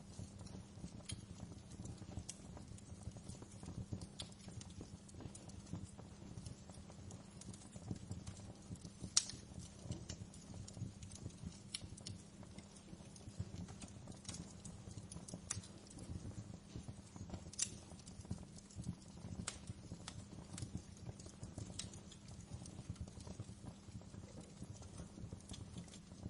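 Wood fire crackling in a fireplace: a steady low rumble of flames under frequent irregular sharp pops and snaps, the loudest pop about nine seconds in and another strong one near eighteen seconds.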